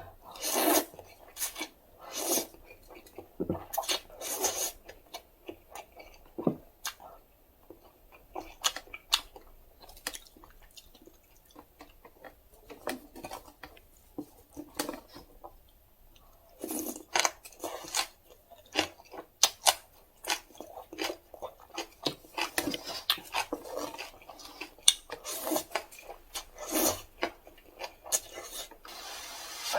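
Close-up eating sounds of instant cup noodles: irregular bursts of slurping between wet chewing, with scattered sharp clicks of utensils against the cup.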